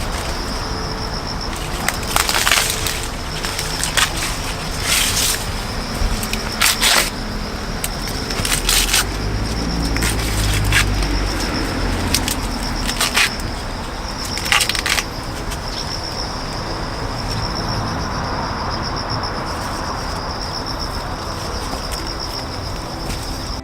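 Several short bursts of rustling, like dry leaves being handled, over a steady high-pitched insect drone.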